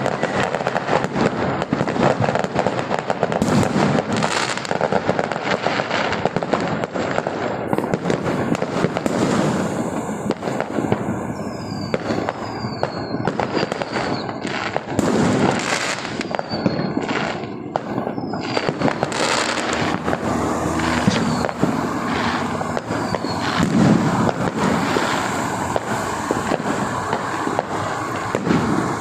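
Fireworks display: a dense, continuous run of loud bangs and crackling, with several short falling whistles in the middle stretch.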